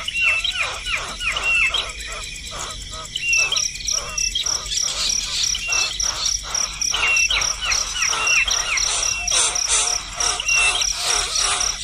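Small birds calling in fast, repeated falling chirps, about four a second, over a steady pulsing insect trill.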